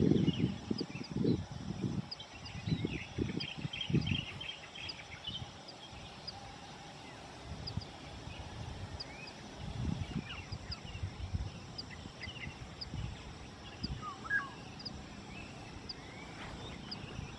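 Songbirds on the volcano's forested slope calling: one bird gives a short high chirp about once a second while others add whistled notes and trills. Wind buffets the microphone in low gusts, strongest in the first few seconds.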